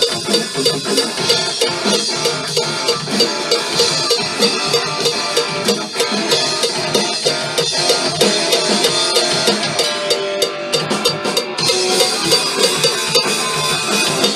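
Drum kit played to a steady rock beat along with the song, with pitched instruments in the mix. The bright cymbal sizzle drops out for about a second and a half around ten seconds in.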